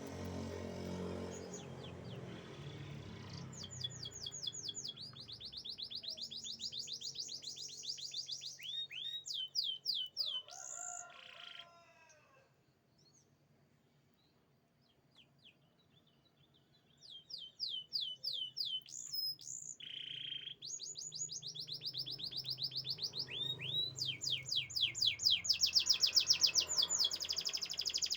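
Domestic canary singing in rapid high-pitched trills and rolls, with a pause of about five seconds in the middle before the song resumes and grows louder toward the end.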